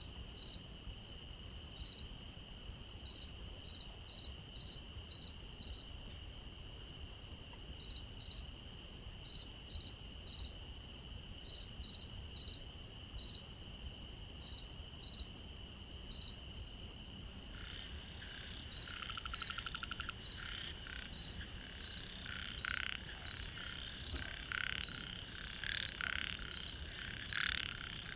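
Night-time chorus of a steady, high, unbroken insect trill with short chirps repeating above it. Past the middle, frogs start calling in quick repeated croaks that grow louder toward the end.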